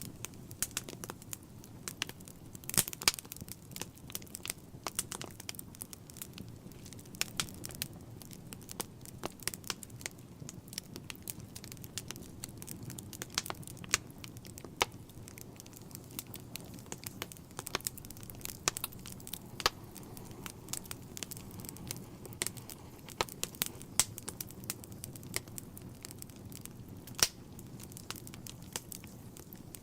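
Fire burning in a fireplace: a low, steady rumble of flame under frequent, irregular sharp crackles and pops.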